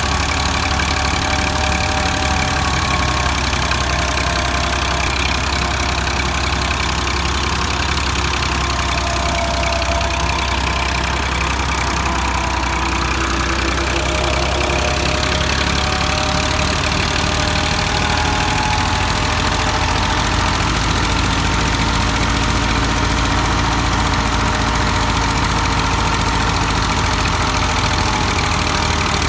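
Ursus 2812 tractor's diesel engine running steadily while driving a thresher, with a faint higher whine that wavers in pitch over the engine note.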